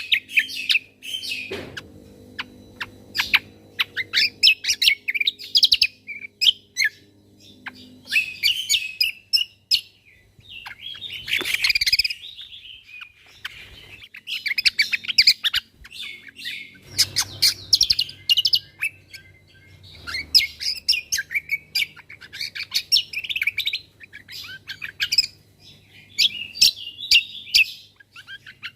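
Cucak kombo (kecial kombo) singing its rapid 'tembakan' song: bursts of fast, high chirps and trills, repeated phrase after phrase with short pauses between them.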